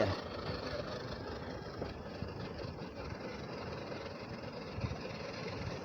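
Axial SCX10 II RC crawler's electric motor and geared drivetrain running steadily with a faint whine as the truck crawls along the trail.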